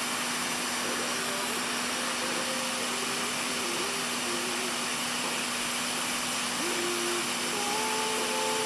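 Steady rushing air noise of a motor-driven blower with a constant low hum. A faint melody of background music sits underneath.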